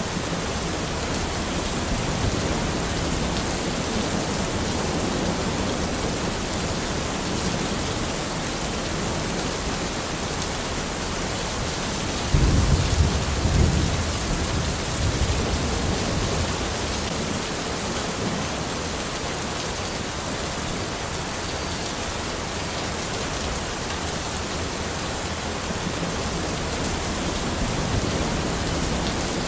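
Steady rain falling, with a sudden low rumble of thunder about twelve seconds in that lasts a couple of seconds and trails off in weaker rumbles.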